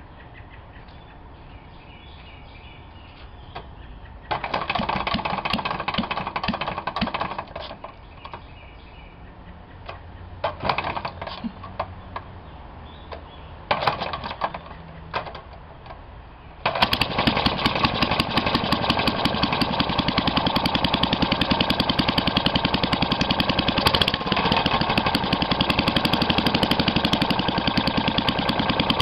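1937 Briggs & Stratton Model WM single-cylinder four-stroke engine being cold-started: a few short bursts of firing that die out, then about 17 seconds in it catches and runs steadily with an even firing beat.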